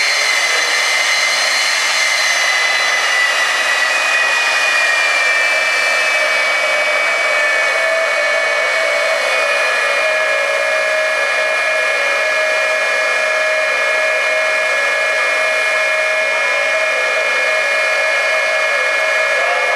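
Jet engine of a jet-powered semi truck running steadily with a loud, high whine over a rushing noise. The whining tones sink slightly over the first several seconds, then hold steady.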